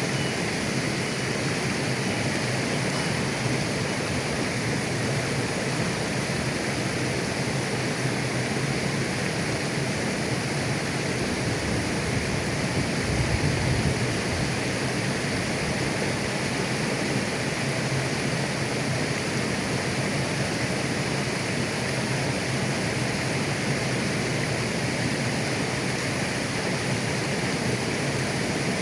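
Shallow mountain river flowing over stones, a steady rushing and babbling of water.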